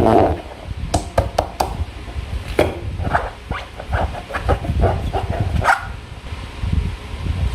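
Slime and a transparent rubber balloon being handled: irregular short squishing and rubbing noises, with a quick run of four sharp clicks about a second in.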